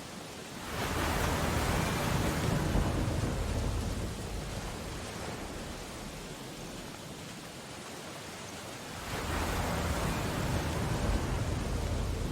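Steady rain with storm surf: a heavy ocean wave breaks and surges about a second in, then another about nine seconds in.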